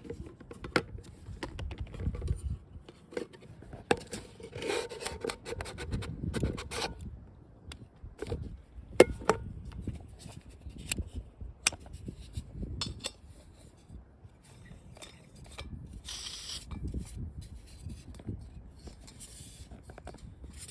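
Camp cooking gear being handled: irregular clicks, rubs and scrapes, with a short hissy rustle about three-quarters of the way through, over low wind rumble on the microphone.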